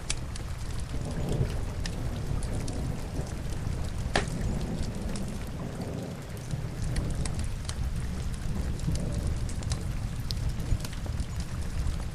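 Steady rain with a low rumble underneath, mixed with a log fire crackling in scattered sharp pops; one louder pop about four seconds in.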